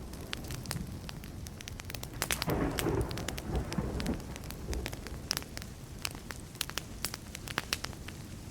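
Burning wood fire crackling with frequent sharp pops, over a low steady rumble. A roll of distant thunder swells about two seconds in and fades out about two seconds later.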